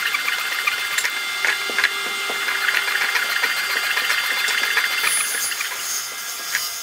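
A power tool running steadily, with scattered short clicks and knocks.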